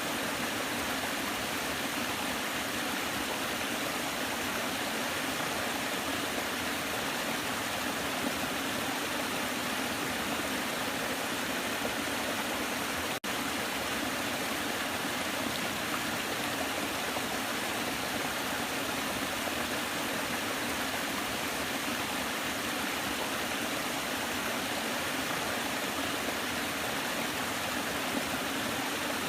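Waterfall: water falling and rushing in a steady, even roar of noise, with a split-second dropout about halfway through.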